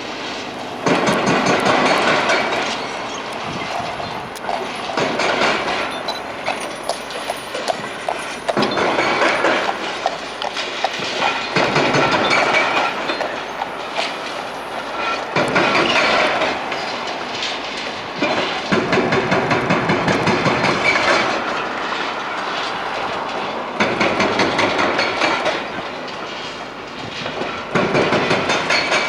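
Demolition machinery working through rubble: repeated bouts of dense crunching and clattering, each lasting a second or two, about every three to four seconds, over a steady machine noise between them.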